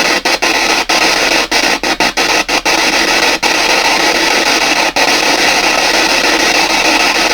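PSB7 spirit box sweeping through radio channels: a steady loud static hiss, cut by many very short dropouts in the first three seconds and a few later as it skips from channel to channel.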